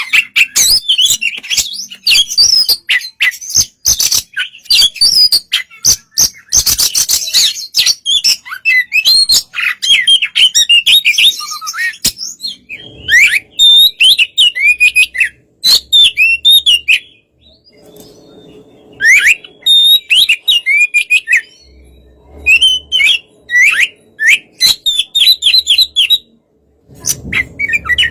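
Oriental magpie-robin (kacer) singing loudly: a fast, varied run of whistles, chirps and harsh clicking notes, broken by two short pauses, one about two thirds of the way through and one near the end.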